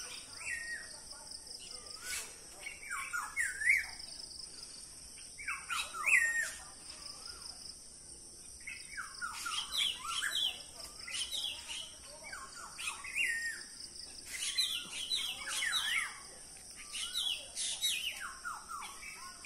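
Small birds calling from the trees in short phrases of quick, bending chirps, a new burst every few seconds. A steady high-pitched insect drone runs underneath.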